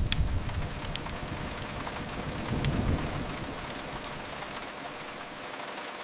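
Steady rain hiss with occasional sharp fireplace crackles. A deep rumble fades out over the first second and swells briefly again around the middle.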